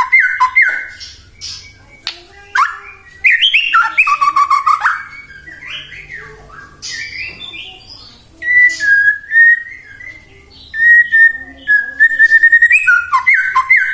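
White-rumped shama singing a loud, varied song: quick runs of repeated whistled notes and sliding phrases, with a stretch of short, level whistles in the later part and another fast run of repeated notes near the end.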